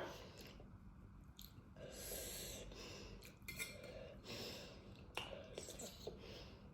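Faint breathing of a person eating very spicy food, a few soft breaths in and out, with a few light clicks and clinks of cutlery or dishes.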